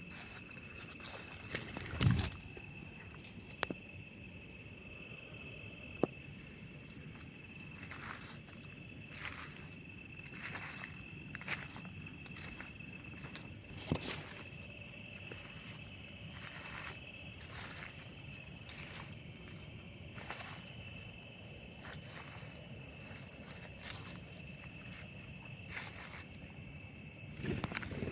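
Footsteps rustling through vegetation at irregular intervals, over a steady high trilling of insects. A sharp knock about two seconds in is the loudest sound.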